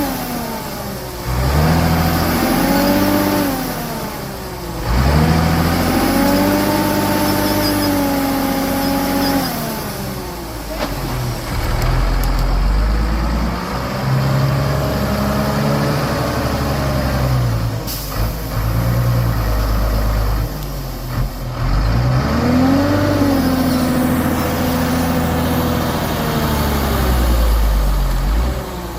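Heavy truck engine revving up and down repeatedly under load in mud. Its pitch climbs and drops several times over the stretch, with a sharp click about eighteen seconds in.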